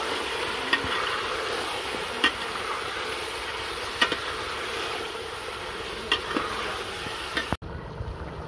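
Marinated chicken frying in hot ghee in a pot, sizzling steadily, while a spoon knocks against the pot about five times as it is stirred. The sizzle cuts off suddenly near the end.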